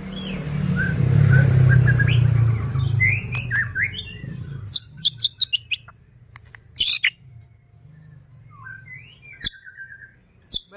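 White-rumped shama singing: sharp high chirps, quick clicks and whistled up-and-down glides, coming thick and fast in the second half. A louder low droning noise under faint bird notes fills the first four seconds or so, then fades out.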